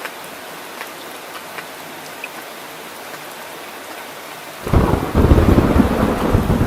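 Steady rain falling, with scattered drip ticks. About two-thirds of the way through, a loud rumble of thunder breaks in suddenly and keeps rolling.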